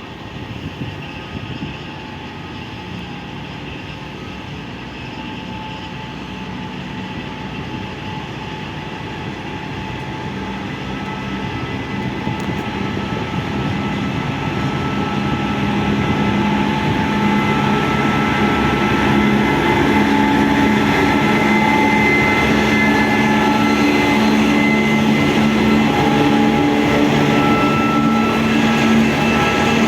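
A train approaching along the track, growing steadily louder for about sixteen seconds and then running loud and steady, with a rumble and several held whining tones.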